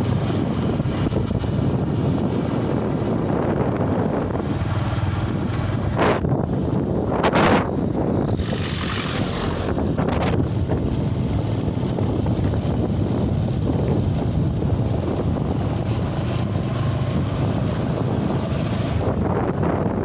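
Wind buffeting the microphone: a steady rumbling rush, with two brief louder gusts about six and seven and a half seconds in.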